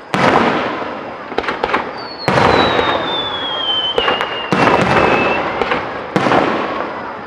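Aerial fireworks shells bursting overhead: four big booms about two seconds apart, each trailing off, with smaller crackling pops between them. A long whistle slides down in pitch from about two seconds in until past five seconds.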